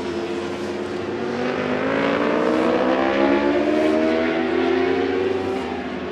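Several racing motorcycles at full throttle, their engine notes overlapping, with the pitch climbing for a couple of seconds from about a second in as they accelerate.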